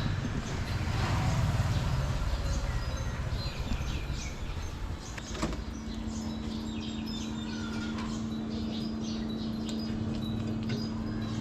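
Birds chirping in short high calls over a low rumble. A sharp click comes about halfway through, and after it a steady low hum continues.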